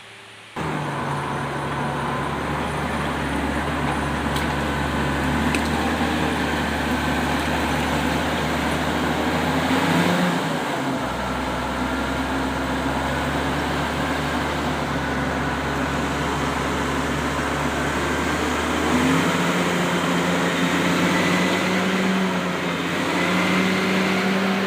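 Komatsu D68ESS crawler bulldozer's diesel engine running steadily under load while it drags a log. The engine note starts abruptly and shifts pitch about ten seconds in and again near nineteen seconds as the revs change.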